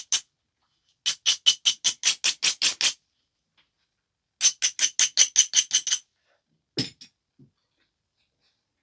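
Stone biface edge being abraded in two quick runs of short scraping strokes, about ten each at roughly five a second, followed by a single knock about seven seconds in.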